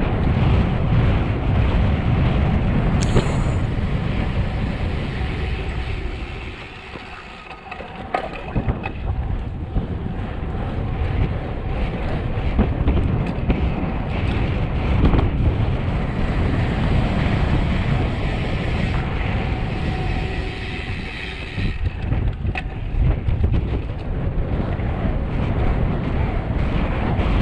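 Wind buffeting the microphone on a fast road-bike descent, a loud, steady low rumble. It eases for a couple of seconds about six seconds in, then builds again.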